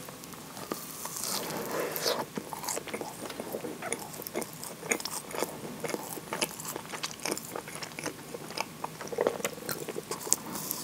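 Close-miked biting and chewing of a moist chocolate-chip scone: many short clicks and crackles of mouth and crumb, with a bite about a second in and another near the end.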